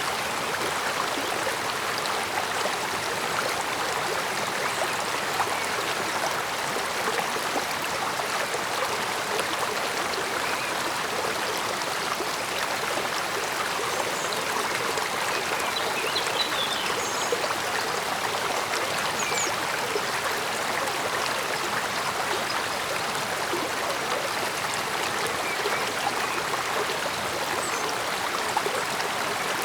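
Small stream flowing steadily over stones, a continuous babbling and trickling of water with no letup.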